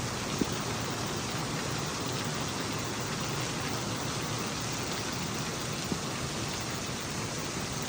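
Heavy rain pouring down in a steady hiss, with two faint ticks.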